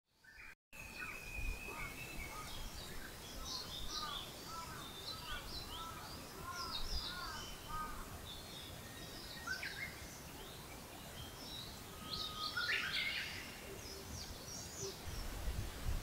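Several wild birds singing and chirping: a run of about ten short, arched whistled notes in the first half, high twittering throughout, and a louder song phrase about two-thirds of the way through, over a low rumble.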